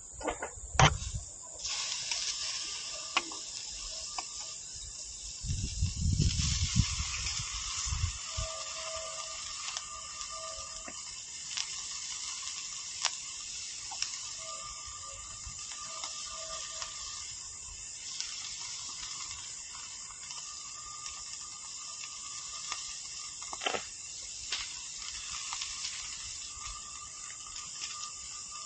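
Meat sizzling on a grill over a small wood fire pit: a steady hiss with scattered crackles and pops. A sharp knock about a second in, and some low rumbling around six seconds in.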